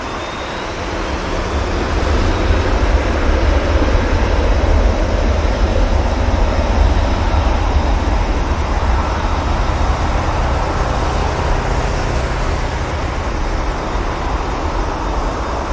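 Boeing 747-400's four Rolls-Royce RB211 turbofans at takeoff thrust: loud jet engine noise with a deep rumble, swelling about two seconds in and slowly easing off toward the end.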